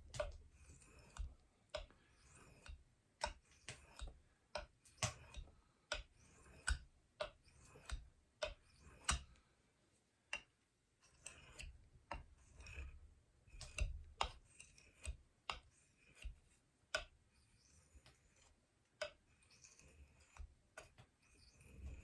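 A steel knife blade being worked on a fine water stone: sharp, irregular clicks about once or twice a second, with faint scraping between some of them.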